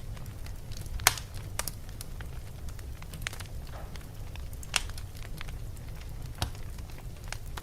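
Wood fire burning in a fireplace: a steady low rumble with scattered crackles and four louder pops, the loudest about a second in.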